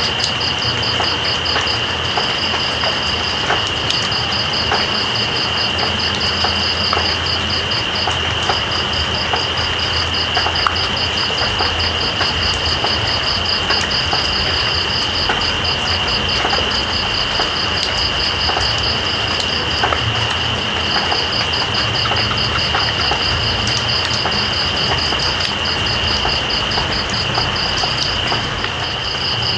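Steady rain with night insects calling: one keeps up a continuous high-pitched trill, while another chirps in a rapid, even pulsed rhythm above it that breaks off briefly a few times.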